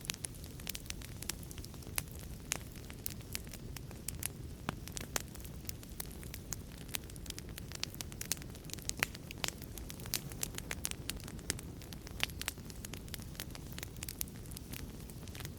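Wood fire in a fireplace crackling: many sharp snaps and pops, several a second, over a low steady rumble of the flames.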